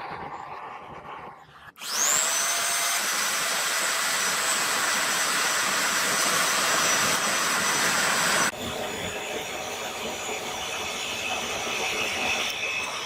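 An electric motor starts about two seconds in with a quickly rising whine and runs at a high, steady pitch over a loud rushing noise. Well past the middle it cuts abruptly to a quieter, steady machine sound.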